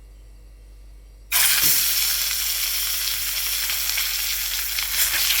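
Fish pieces frying in hot oil: a loud, steady sizzle that starts suddenly about a second in, as the fish goes into the pan.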